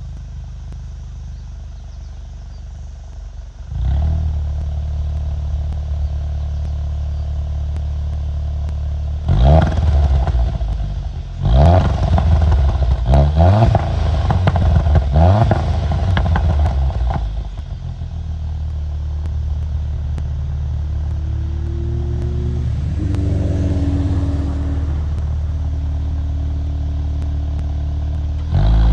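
VW Golf Mk7 R's turbocharged EA888 four-cylinder exhaust idling, stepping up in level about four seconds in. It is then blipped about five times in quick succession, each rev rising and dropping back, before it settles back to a steady idle.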